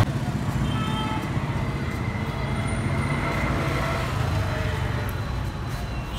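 Steady low rumble of road traffic and vehicle engines, with faint music over it.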